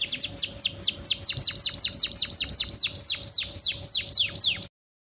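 Female canary in breeding condition calling for a male: a quick series of high, downward-sweeping chirps, rapid at first and slowing to about four a second, which cuts off suddenly near the end.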